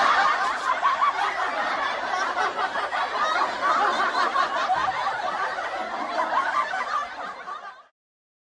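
A group of people laughing together, like an audience laugh track, thinning out and stopping about eight seconds in.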